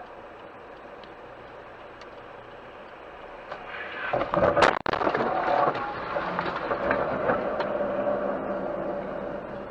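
Steady driving noise heard through a dashcam, then about four seconds in a sudden loud vehicle crash with a sharp impact. Several seconds of loud, noisy aftermath follow and slowly fade.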